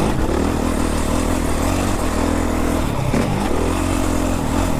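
Four-stroke Honda motocross bike engine running hard under throttle, heard from on board, with the revs dropping and climbing again about three seconds in.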